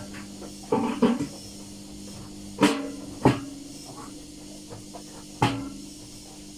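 Parts and tools being handled on a workbench: a handful of sharp knocks and clanks, two close together about a second in, two more around the third second and one near five and a half seconds, over a steady low hum.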